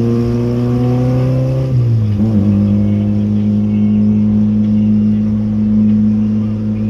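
Volkswagen Gol G2's AP four-cylinder engine droning loudly through a straight-through exhaust while driving, the revs climbing slowly, then dropping sharply about two seconds in and holding steady.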